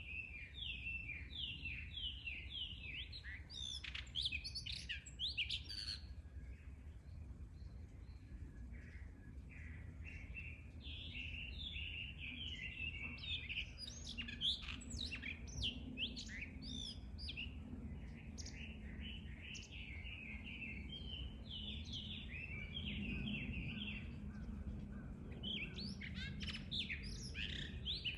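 Blue rock thrushes calling back and forth: continuous runs of quick chirping notes, with clusters of higher, sharper notes about four to six seconds in, midway, and near the end.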